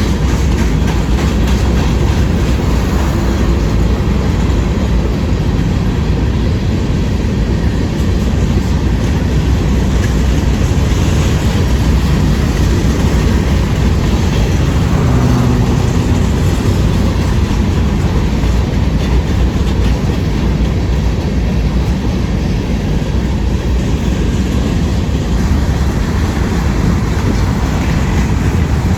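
Empty rock train cars rolling past at steady speed, their wheels clacking over the rail joints with a heavy, constant low rumble.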